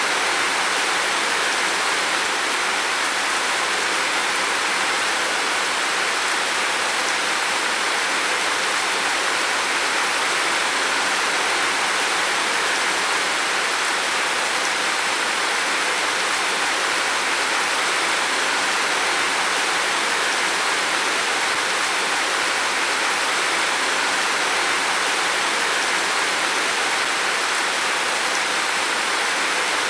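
Heavy rain falling steadily on a roof, a dense even hiss without breaks.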